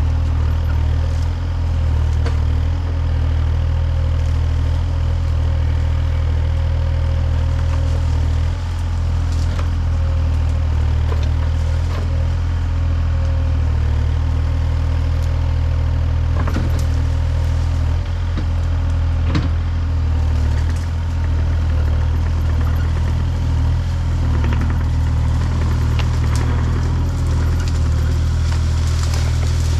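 A large engine running steadily at a low, even pitch, with a few short knocks and clanks over it.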